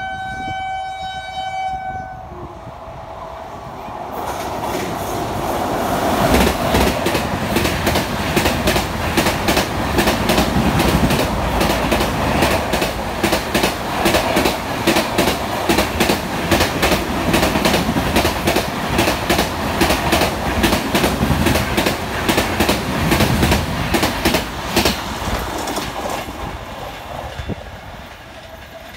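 WAP-7 electric locomotive's horn sounding one long steady note that stops about two seconds in. Then the locomotive and its express coaches pass at speed, with the wheels clattering rhythmically over the rail joints. The sound fades near the end as the train moves away.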